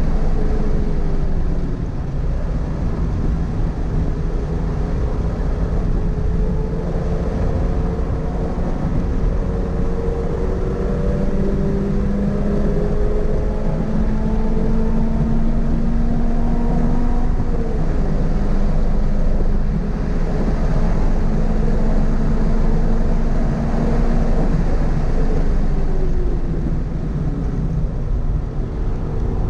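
Toyota GR86's 2.4-litre flat-four engine running hard at speed, its pitch climbing slowly and falling away twice, over a heavy low rumble of road and wind noise.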